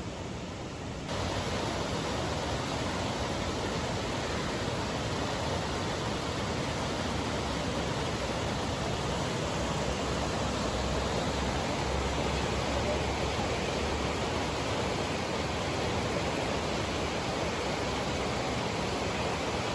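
A steady rushing noise with no distinct events, which gets louder in one step about a second in.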